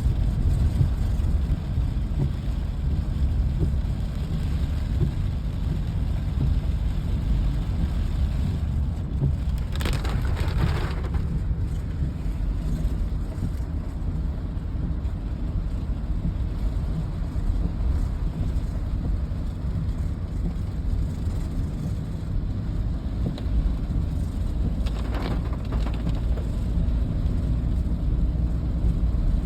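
Rainy-day outdoor ambience: a steady low rumble under a haze of rain noise, with two brief swells of hiss, about ten seconds in and again near the end.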